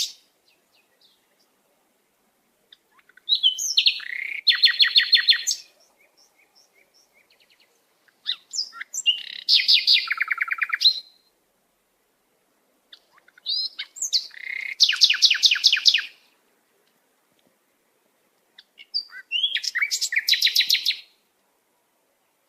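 A songbird singing four phrases about five seconds apart. Each phrase opens with a few quick chirps and runs into a fast trill of evenly spaced notes lasting about two seconds.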